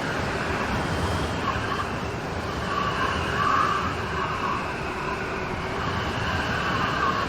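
Steady rain falling in a storm, with a swell of heavier rain about halfway through.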